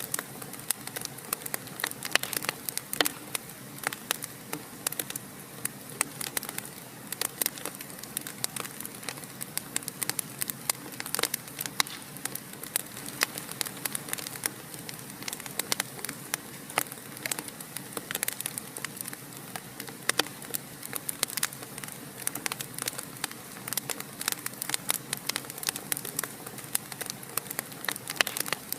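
Wood fire burning in a fireplace: a soft steady hiss with many irregular sharp crackles and pops, several a second.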